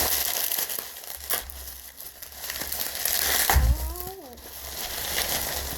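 Plastic packing material and wrapping being handled and crinkled while an unboxing goes on, with a sharp click a little over a second in and a low thud past the middle. A brief voiced sound, rising then falling, comes just after the middle.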